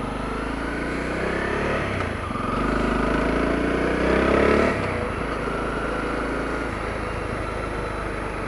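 Honda CRF250L's single-cylinder four-stroke engine running as the dual-sport motorcycle rides along, its pitch rising over about two seconds before dropping suddenly a little past halfway, then running steadily.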